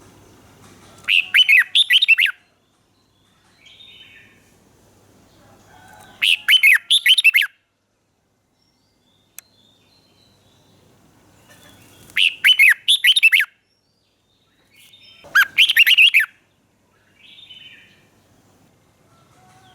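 Red-whiskered bulbul singing: four short, rapid warbling phrases a few seconds apart, with softer single calls in between.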